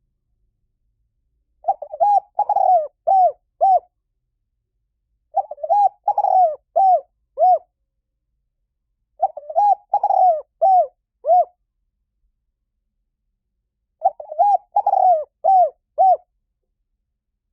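Spotted dove cooing: four song phrases about four seconds apart, each a quick run of five or six low, arched coo notes.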